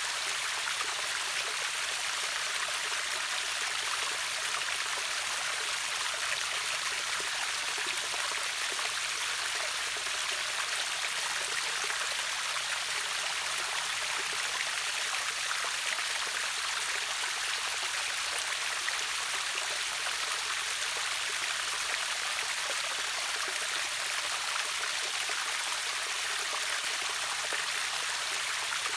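River water rushing over a waterfall: a steady, even hiss that never lets up.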